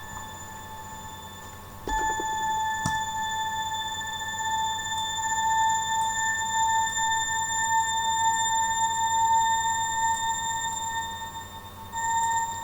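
Roland M-DC-1 synth module sounding one high, bell-like held note with a few overtones. It comes in about two seconds in and cuts off near the end, with a few light taps from the trigger pads.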